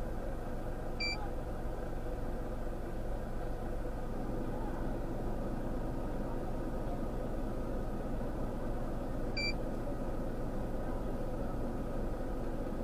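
Steady hum of an idling vehicle engine, with two short high electronic beeps about eight seconds apart.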